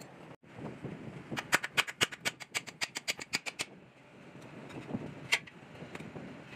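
Metal being struck with a hammer: a fast run of sharp clanging blows, about seven a second, stops short, and a single blow follows a couple of seconds later.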